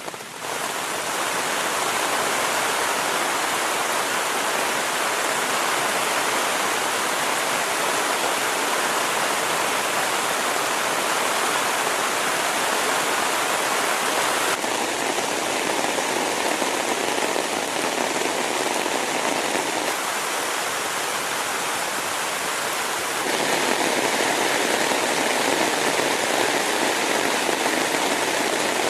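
Heavy rain falling as a steady, loud hiss with no thunder. Its tone and level shift abruptly about 15, 20 and 23 seconds in.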